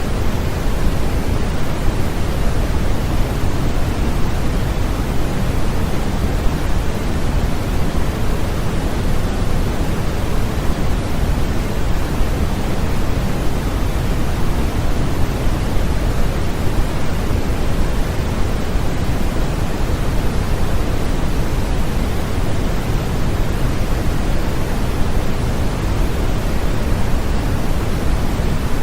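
Continuous steady white noise made as a sleep sound, an even hiss weighted toward the low end like pink noise, unchanging throughout.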